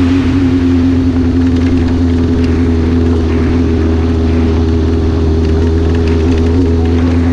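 Sportbike engine running at steady revs, a constant drone that holds the same pitch throughout.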